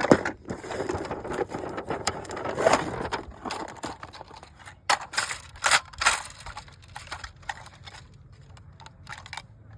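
Hands handling a toy's packaging and plastic parts: rustling for the first few seconds, then a few sharp plastic clicks and knocks about halfway through, with fainter clicks after.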